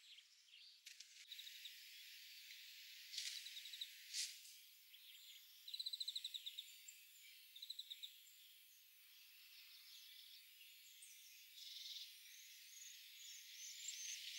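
Faint, high-pitched bird sounds: a few short, rapid trills and chirps, then thin cheeping near the end from European greenfinch nestlings begging to be fed.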